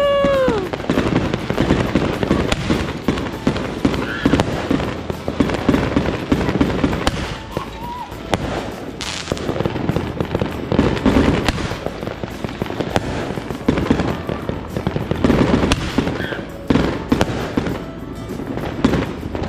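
Fireworks going off: a dense, continuous run of bangs and crackles from aerial shells bursting overhead, with a short whistle dying away right at the start.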